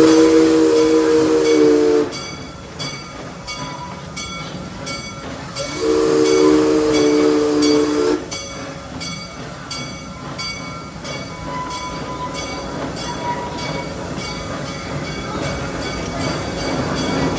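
Park railroad locomotive's chime whistle blown twice, each blast about two seconds long: one at the start and another about six seconds in. Under the blasts the train runs steadily with a regular clicking beat.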